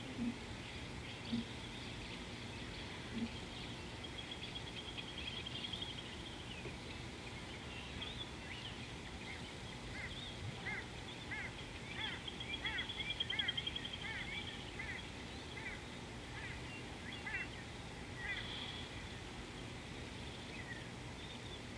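Wild birds singing: a rapid high trill repeated several times, and in the middle a run of quick rising-and-falling chirps, over steady background noise. A few short low sounds near the start.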